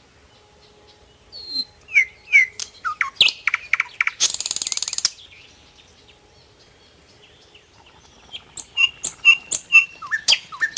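Small birds chirping: a run of quick down-slurred chirps, a harsh rattle lasting about a second, about four seconds in, then a series of short repeated notes near the end.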